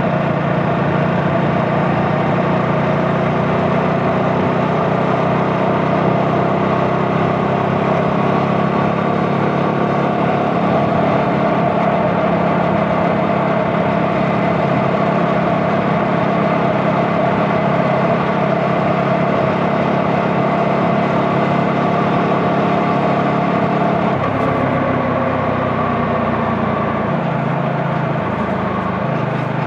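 CF Moto 250NK single-cylinder motorcycle engine running at steady revs under way. Near the end the revs fall off in steps as the rider eases off.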